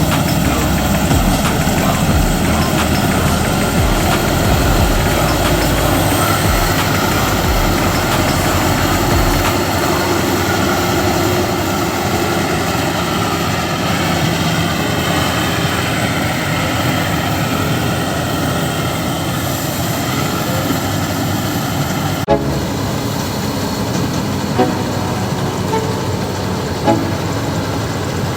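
Combine harvester running with a steady engine drone and machinery noise. The sound changes abruptly about three quarters of the way through, followed by a few short clicks.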